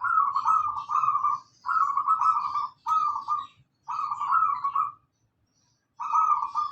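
Zebra dove (perkutut) cooing: five loud phrases of quick rippling coos, with a longer pause about five seconds in.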